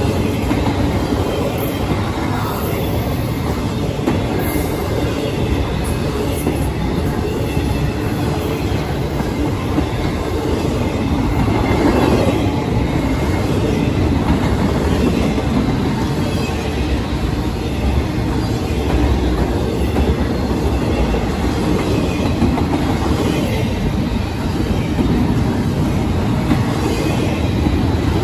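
Long intermodal freight train's container and trailer cars rolling past at speed: a steady rumble of steel wheels on the rails, with occasional clacks and a brief swell in loudness about twelve seconds in.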